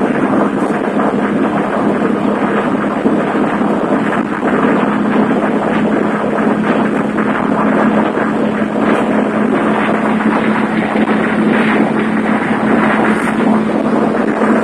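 Air-cooled 1600 twin-port flat-four engine of a 1973 VW Super Beetle running hard at high road speed, a steady engine drone that holds one pitch with no gear change. Heavy wind and road noise.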